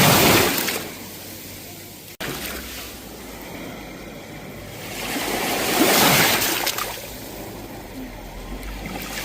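Sea waves washing onto a shore. One surge of surf is breaking at the start and fades within a second; another builds and peaks about six seconds in. The sound cuts out very briefly about two seconds in.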